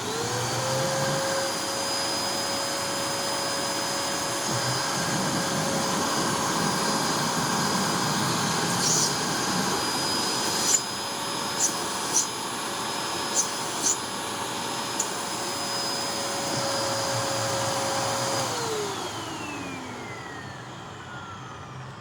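Hoover NanoLite vacuum motor switched on and spinning up to a steady whine, running on a sealed suction test with its suction relief valve being covered. A few sharp clicks come in the middle. Near the end it is switched off and the whine falls away as the motor spins down.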